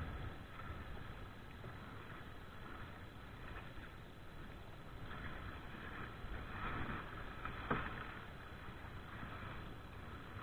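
Water splashing around a small rowing boat as it is paddled, with low wind rumble on the microphone and a single sharp knock about eight seconds in.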